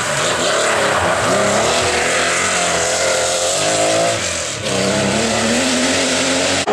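Historic rally car's engine accelerating hard at full throttle, its pitch climbing. The engine briefly lifts about four and a half seconds in, then pulls and climbs again.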